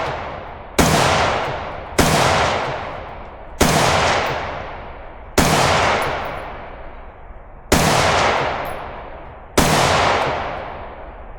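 Six single rifle shots fired at a slow, deliberate pace, about one every one and a half to two seconds, each followed by a long echoing decay.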